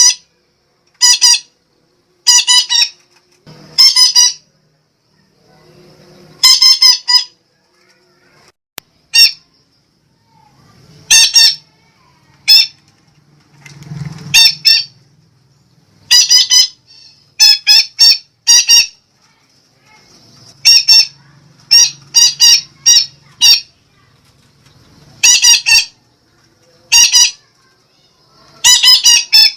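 Sumatran betet parakeet giving loud, harsh, shrill squawks. The squawks are short and come singly or in quick runs of two or three, with pauses between them, as in a lure call.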